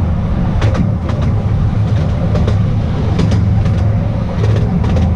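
Petit train d'Artouste running along the track, heard aboard: a steady low rumble with scattered irregular clicks from the wheels on the rails.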